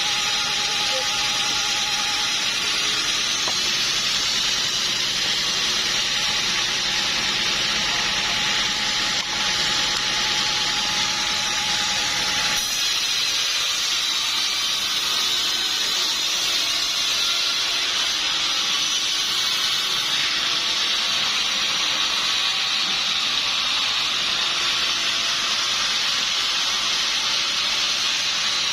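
Sawmill blade cutting through a log: a steady, loud hissing whine of the blade in the wood. A steady tone and lower hum underneath stop about twelve and a half seconds in, while the cutting sound goes on.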